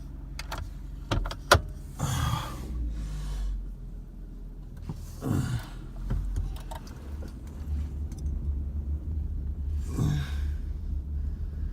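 Ford F-150 engine idling after a cold start in freezing weather, heard from inside the cab as a low rumble that gets louder about two-thirds of the way in. A few sharp clicks come early, and three swishing sweeps come about two, five and ten seconds in.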